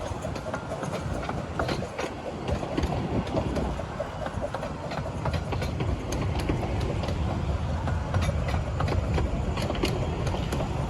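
Miniature 15-inch-gauge railway train running along the track: a steady rumble with frequent clicks of wheels over the rails, growing a little louder about halfway through.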